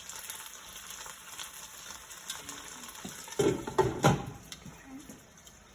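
Cornstarch-coated chicken pieces sizzling in hot oil in a frying pan, a steady hiss. A few loud knocks and clatters come about three and a half to four seconds in.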